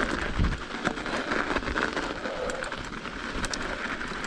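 Mountain bike tyres rolling over hard-packed snow and ice: a steady crackling hiss scattered with small clicks and rattles, with a low thump about half a second in.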